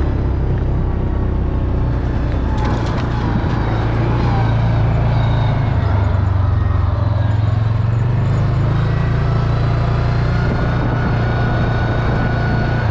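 Vehicle engine running steadily at a constant speed, heard close to the machine.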